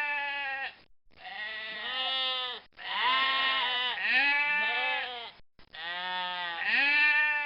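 Domestic goats bleating: about four long, wavering bleats one after another, with short gaps between them.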